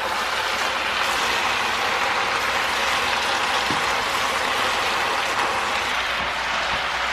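Stir-fried noodles, chicken and vegetables sizzling steadily in a hot electric skillet while being tossed with kitchen tongs, with a couple of faint clicks from the tongs.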